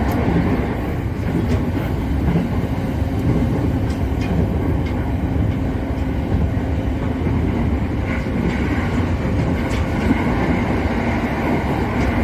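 JR Musashino Line commuter train running, heard from inside the leading car: a steady rumble of wheels on rail with a faint steady hum and a few light clicks.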